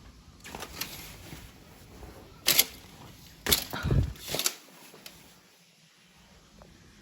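A few sharp clacks and knocks, with handling noise in between.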